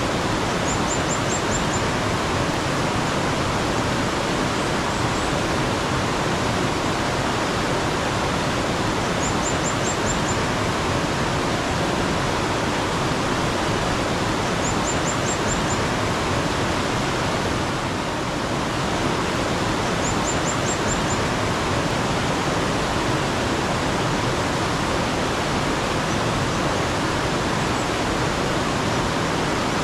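Steady rush of flowing mountain stream water. Over it a small bird repeats a quick run of about five high notes four times, every five or six seconds.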